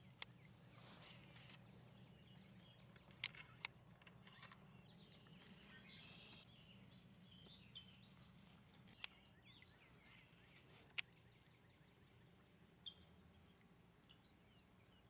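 Near silence with faint outdoor ambience and a few faint bird chirps. About half a dozen sharp, isolated clicks or knocks stand out, the loudest a pair a little after three seconds and one near eleven seconds.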